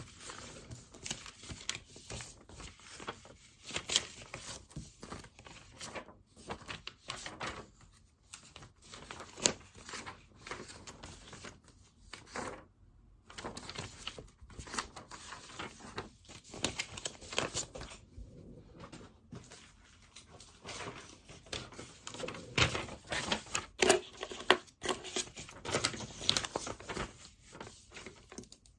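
Pen writing on paper: irregular short scratching strokes with occasional louder taps of the pen, stopping briefly about halfway.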